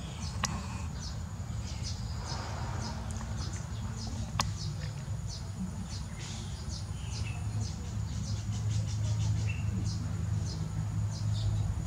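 Small birds giving many short, quick chirps that fall in pitch, several a second, over a thin steady high whine and a low rumble.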